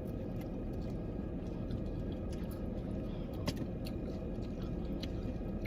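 Quiet eating of chicken wings: a few faint clicks and smacks, one sharper about three and a half seconds in, over a steady low background hum.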